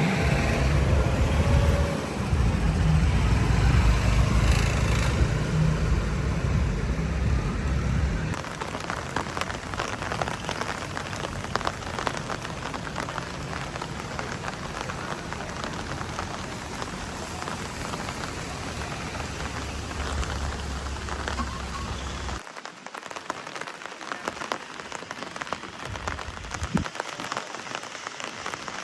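Rain falling on a surface, a dense crackle of many small drops. A heavy low rumble underneath drops away about eight seconds in.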